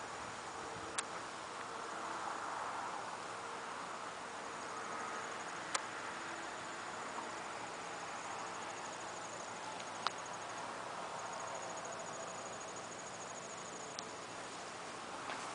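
Faint insects trilling outdoors, high rapid pulsing trills that come and go over a steady hiss, with a few sharp clicks.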